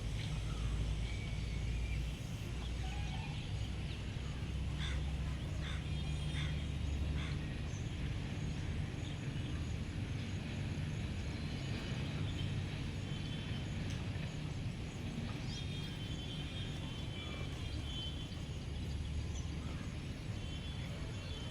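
Small birds chirping and giving short rapid trills, several times over a steady low rumble.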